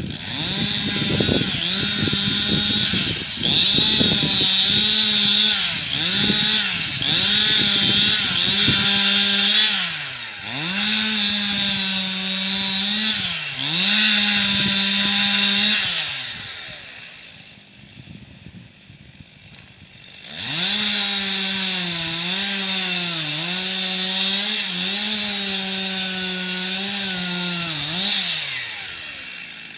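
Two-stroke chainsaw running at full throttle and cutting wood, its pitch sagging briefly each time it bites under load. It drops back for a few seconds about halfway through, then revs up and cuts again before easing off near the end.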